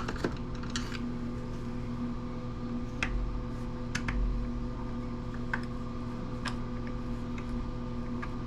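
A few scattered light clicks and taps of a screwdriver bit on a stubborn screw that won't come out, over a steady background hum.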